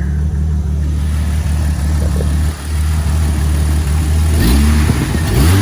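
A car engine idling steadily. Near the end a second engine, the jump-started car, catches and revs up twice, rising in pitch each time.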